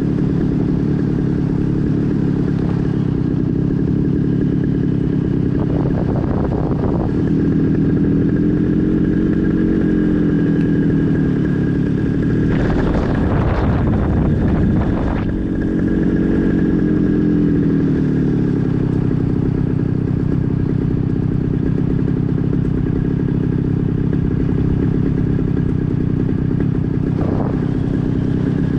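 Light aircraft engine left running at idle during a simulated engine-out glide, a steady drone whose pitch drifts gently up and down. Two brief rushing noises come through about six seconds in and again around twelve to fifteen seconds.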